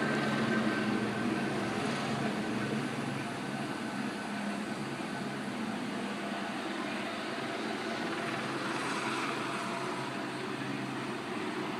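Police helicopter flying over the neighbourhood: a steady drone of rotor and engine.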